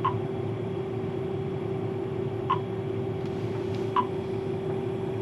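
Steady drone of a running John Deere combine heard inside its cab, with a held humming tone. Three short beeps sound over it, at the start, about two and a half seconds in and a second and a half later, from the cab's touchscreen display as its menus are tapped.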